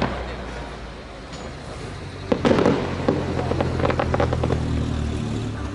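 Fireworks going off: a loud shell burst about two seconds in, followed by a quick string of crackles, over a steady low hum.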